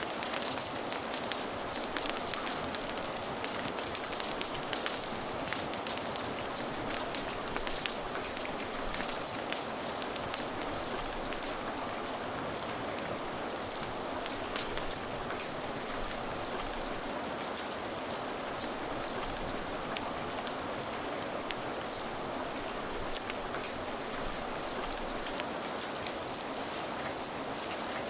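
Steady rain ambience, an even hiss, layered with fire crackling: scattered sharp pops and ticks that come more often in the first half.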